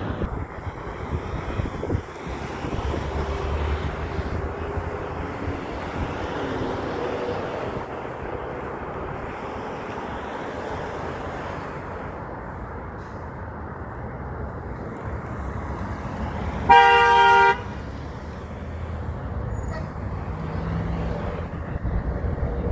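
Road traffic passing, engines running and tyre noise. Near the end a vehicle horn sounds one short, loud blast of under a second, with two or more pitches at once.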